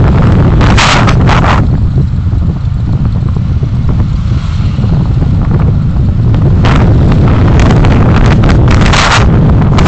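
Heavy wind rumble on the microphone of a moving vehicle, with road noise underneath. Louder hissing gusts come about half a second in and again from about seven to nine seconds.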